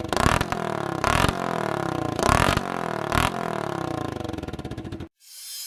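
Motorcycle engine running through a bamboo exhaust pipe, blipped in short revs about four times. The sound cuts off suddenly about five seconds in, and a rising whoosh follows near the end.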